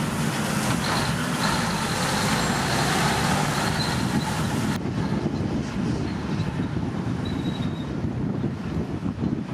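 Diesel engine of a Komatsu D65P bulldozer running with a steady low rumble. The higher clatter and hiss drop away abruptly about halfway through, while the engine rumble carries on.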